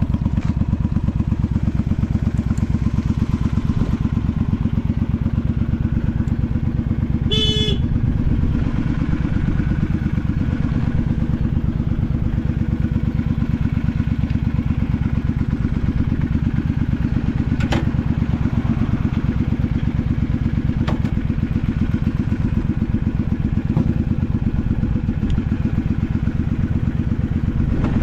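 Honda V-twin Magna 250's engine idling steadily through drag pipes, an even, loud pulsing exhaust beat with no abnormal engine noise, as the seller states.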